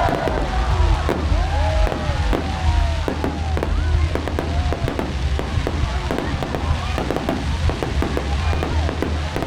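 Fireworks display: a dense, continuous run of sharp bangs and crackles, with short tones that rise and fall in pitch, over a steady low rumble.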